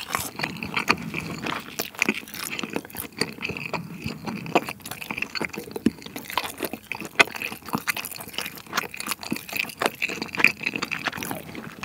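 Close-miked chewing of a fried cheese ball: a steady run of wet, sticky mouth clicks and smacks as the chewy dough is worked.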